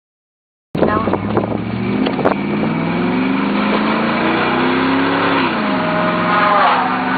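Chevrolet Silverado's 5.3-litre V8 accelerating hard: the sound starts abruptly under a second in, the engine pitch climbs for a few seconds, drops sharply at an upshift about five seconds in, then holds and begins climbing again. Wind noise on the microphone runs under it.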